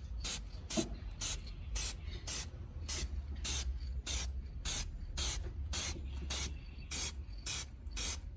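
Aerosol can of red high-heat paint spraying in short, even bursts, about two a second, while brake parts are given a first coat. A low steady rumble runs underneath.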